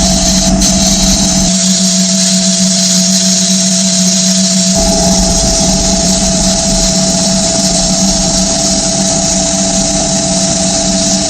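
Electric power tool running steadily at constant speed, a hum with a strong high hiss like grinding or abrasive work on metal. Its low rumble drops away briefly and returns about five seconds in.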